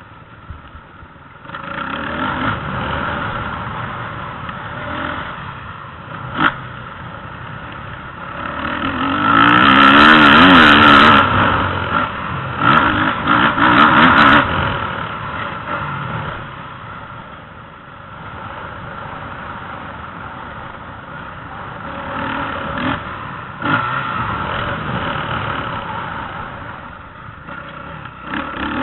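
Motocross motorcycle engines revving and running on a dirt track, swelling and fading as the bikes come and go; loudest about a third of the way in, when a bike passes close while revving hard.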